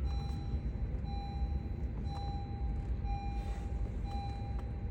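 2020 Honda Accord's dashboard warning chime beeping about once a second, a steady mid-pitched tone, over the low rumble of the engine running after starting on a newly cut key.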